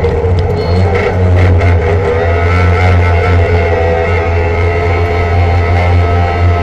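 Trabant 601's two-cylinder two-stroke engine running steadily at an even speed, with a few faint ticks between one and two seconds in.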